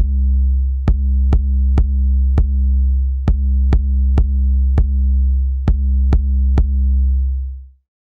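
Beatbox freestyle: a held deep bass tone with sharp, dry clicks laid over it in a repeating pattern of four. The bass fades away near the end, leaving a brief silence.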